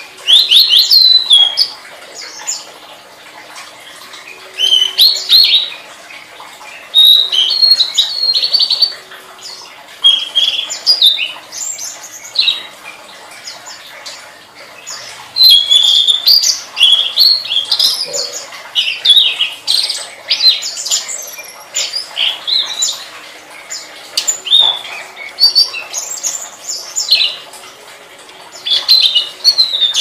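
Tledekan, a Cyornis blue flycatcher, singing vigorously. It gives repeated loud phrases of quick, high chirps and rapid trills, each a second or two long, separated by short pauses.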